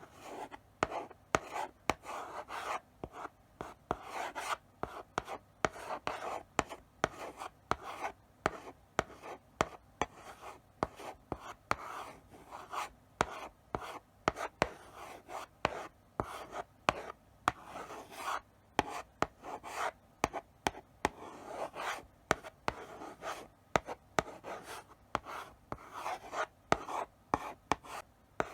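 Chalk writing slowly on a blackboard: a steady run of short scratchy strokes broken by frequent sharp taps as the chalk meets the board.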